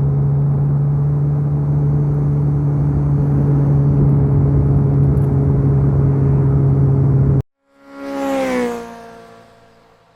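2019 Suzuki Hayabusa's inline-four engine running at a steady drone under wind rush. It cuts off abruptly about seven seconds in, and a short whooshing outro sting with falling tones follows and fades away.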